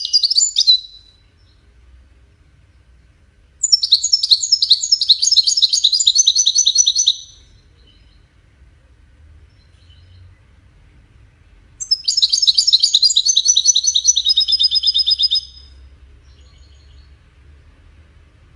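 European goldfinch singing in the Moroccan 'widani' style: fast, high twittering phrases. One phrase ends just after the start, then two full phrases of about three and a half seconds each follow, several seconds apart.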